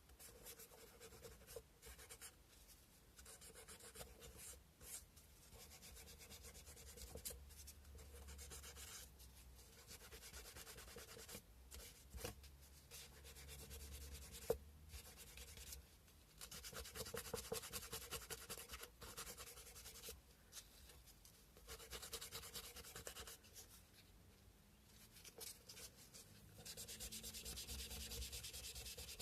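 Sandpaper rubbed by hand over a carved cow-bone fish hook: faint, scratchy strokes in irregular spells, with one sharp click about halfway through.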